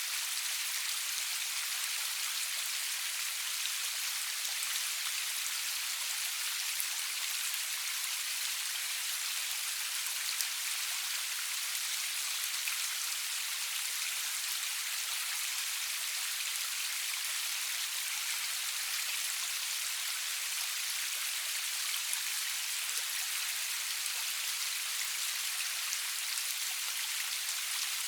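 Steady rain falling, an even high hiss with fine scattered drop ticks and no thunder.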